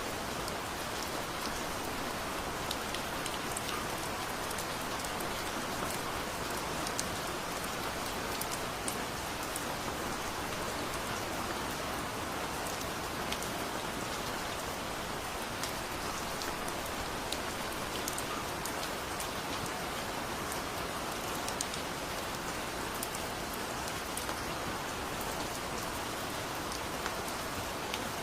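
Heavy rain falling steadily, an even hiss with many scattered sharp drop ticks.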